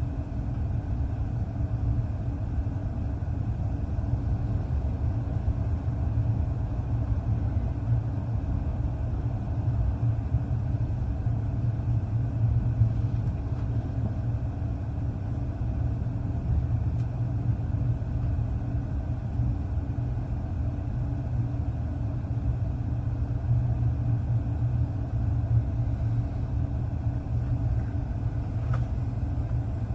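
Steady low rumble of a moving passenger train, heard from inside the carriage: wheels running on the track and the car's running noise as it rolls into the station.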